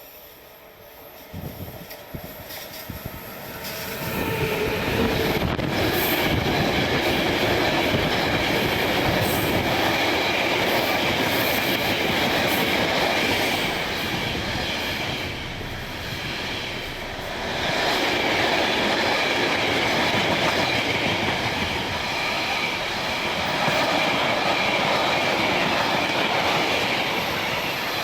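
A train passing through a station. It comes up loud about four seconds in, and the wheels clatter steadily over the rails with a faint high ringing tone above the rolling noise.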